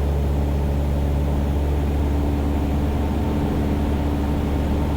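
Cessna 172's piston engine and propeller running steadily in flight, a constant low drone heard inside the cabin.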